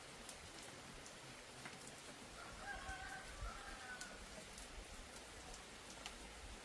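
Steady rain hissing, with scattered drips ticking. A short animal call sounds faintly around the middle.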